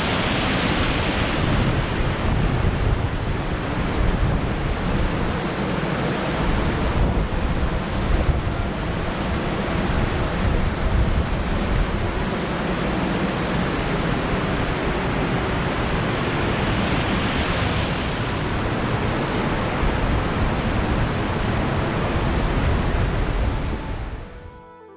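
Strong wind blowing across the microphone in a snowstorm: a steady rushing roar with heavy low buffeting in gusts. It cuts off suddenly near the end.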